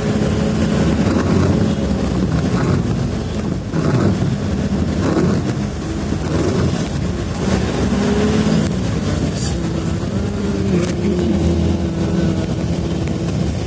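A motor vehicle on the move: its engine hum wavers slightly in pitch over steady road and wind noise.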